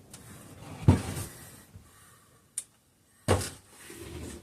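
Hand tools being handled during engine assembly: a dull knock about a second in, a short sharp click a little later, and another dull knock near the end, with faint handling noise between.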